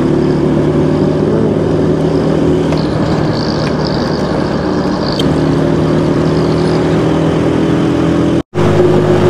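Honda 125 motorcycle's single-cylinder four-stroke engine running steadily under way at road speed. The sound cuts out for an instant near the end.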